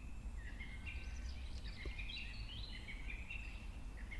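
Faint bird song: a continuous run of high, thin whistled notes stepping up and down in pitch, over a steady low outdoor rumble.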